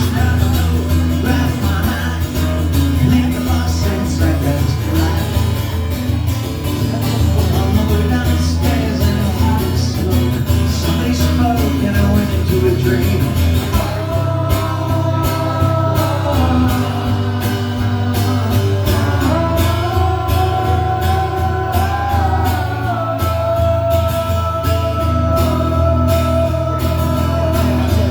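Rock music with guitar over a steady bass line. About halfway through, long held notes take over, stepping up and down between a few pitches.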